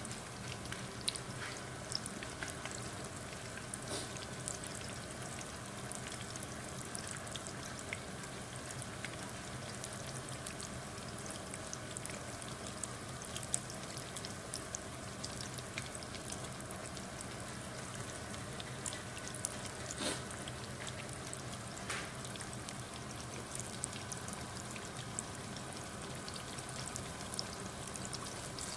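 Battered sweet potato slices frying in hot oil in a pan: a steady sizzle with many small scattered pops and crackles.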